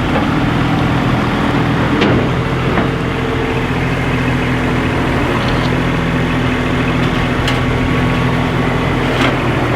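A vehicle engine running steadily with a low hum, with a few faint ticks.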